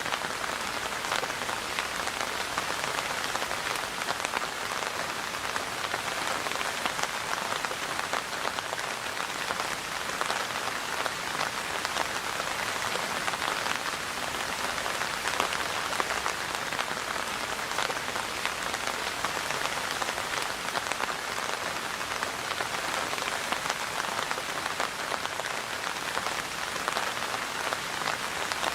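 Steady rain falling and pattering on surfaces, a dense even hiss of many fine drop ticks.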